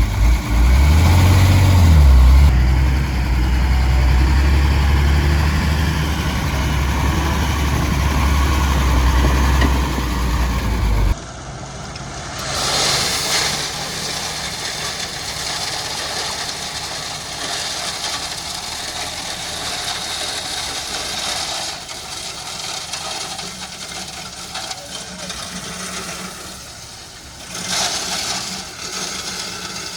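Heavy diesel engine of road-construction machinery running with a loud low drone, its pitch climbing about a second in and then holding steady. About eleven seconds in it cuts off suddenly, leaving a quieter rushing noise that swells now and then.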